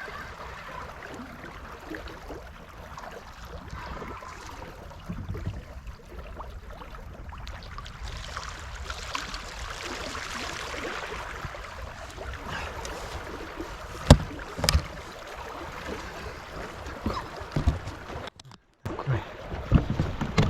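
Water splashing and lapping at a riverbank, with fishing-tackle handling noises and two sharp knocks close together about two-thirds of the way in.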